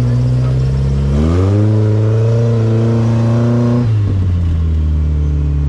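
Off-road rig's engine running steadily, revving up about a second in, holding the higher speed, then dropping back to idle about four seconds in.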